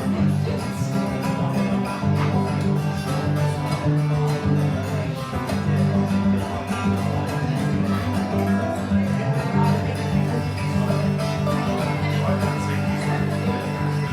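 Live acoustic guitar playing a song with steadily strummed chords.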